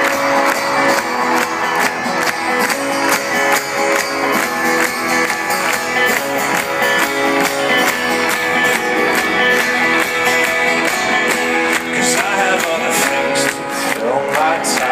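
Live folk-rock band playing an instrumental break: fast, steadily strummed acoustic guitar and other plucked strings driving a rhythm, with no singing.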